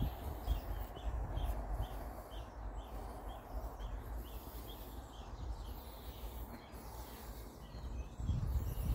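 A small bird repeating a short chirp about three times a second, stopping about four seconds in, over a low rumble of wind and handling on the microphone.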